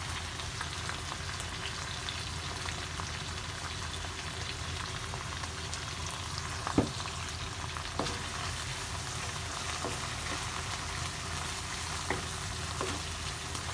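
Red onions and canned tuna sizzling steadily in hot oil in a nonstick wok, stirred with a wooden spatula that knocks against the pan a few times in the second half.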